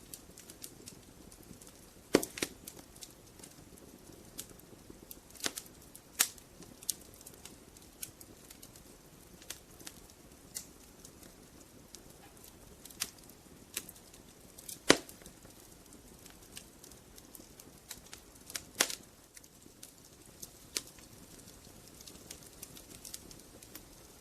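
Wood logs burning in a fireplace, crackling with irregular sharp pops over a soft low rush of flame; the loudest pops come at about 2, 15 and 19 seconds.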